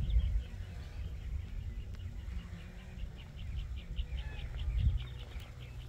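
A bird chirping in a quick, even series of short high notes, with a low rumble underneath.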